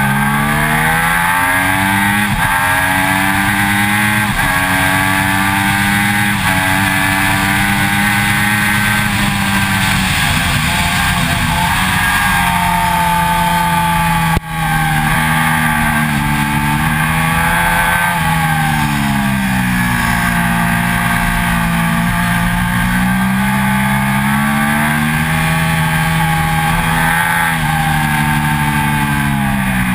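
2006 Triumph Daytona 675's three-cylinder engine at high revs on track. The pitch climbs through the gears and drops off into the corners, over constant wind and road rush at the low-mounted camera. There is a momentary cut-out about halfway through.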